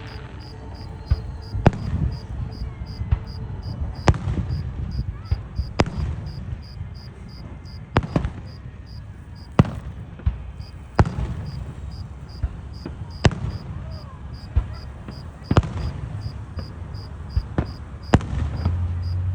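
Fireworks going off: sharp bangs every couple of seconds, about ten in all, over a low rolling rumble of more distant blasts. Crickets chirp steadily underneath.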